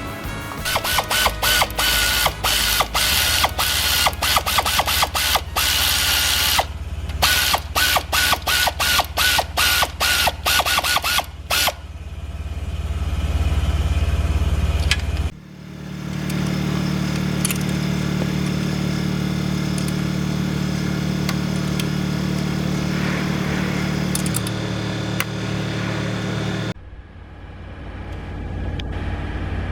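Rapid, irregular mechanical clicking for roughly the first eleven seconds, then a steady low machine hum that shifts in pitch twice near the end.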